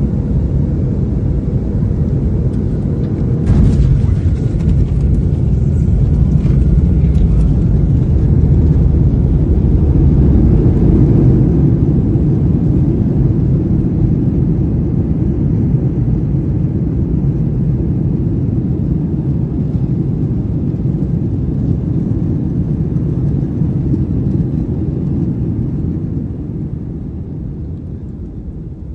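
Heard from inside the cabin, a Boeing 737 airliner's landing: a sudden thump about three and a half seconds in as the wheels touch down, then the heavy rumble of the rollout builds for several seconds as the aircraft slows. The rumble eases off near the end.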